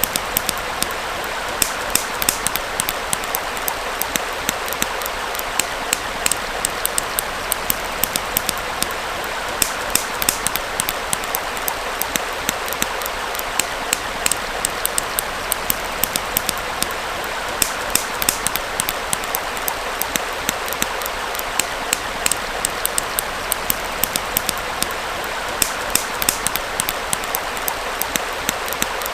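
Campfire crackling, with frequent sharp pops and snaps, over the steady rush of a small flowing stream.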